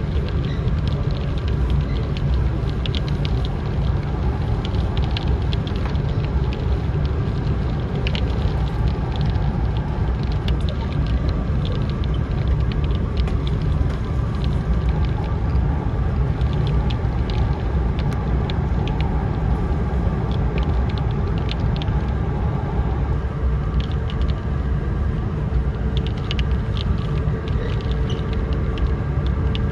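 Cabin ride noise of a JR East E4 series Max double-decker Shinkansen running at speed: a steady low rumble with scattered light ticks and rattles.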